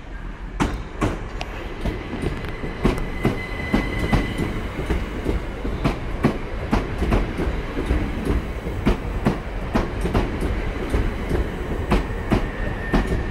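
Southern Class 377 Electrostar electric multiple unit running into the platform, its wheels rumbling and clicking over rail joints and points at a steady pace. A thin high whine sounds briefly about three to four seconds in.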